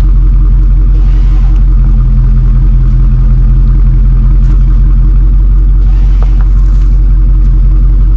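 A vehicle engine idling steadily and loudly close by, one even, unchanging drone.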